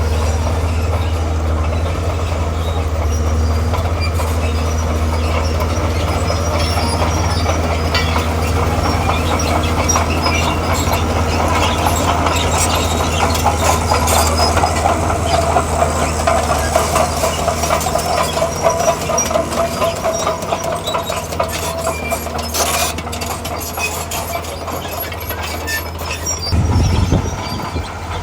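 Komatsu D41P crawler bulldozer working, its diesel engine running steadily under the rapid clatter of its steel tracks. A whine rises in through the middle. The engine note changes near the end.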